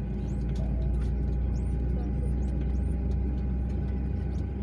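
Steady low rumble and hum of an airliner heard inside the passenger cabin, from its engines and air systems on the ground, with a thin steady tone over it. A few faint short high chirps sound in the first half.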